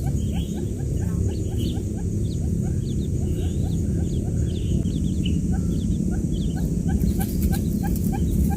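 A crowd of newly hatched quail chicks peeping, many short falling chirps overlapping in rapid succession, over a steady low rumble.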